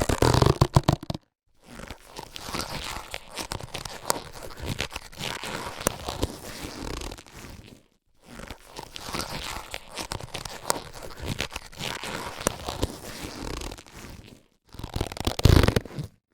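Latex surgical gloves being handled: rubbery rustling and crinkling with many small clicks and squeaks. There are louder, fuller bursts about a second long at the start and near the end, and a brief pause about halfway through.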